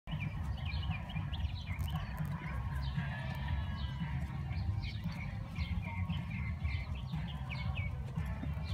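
Small birds chirping in many quick, short calls over a loud low rumble.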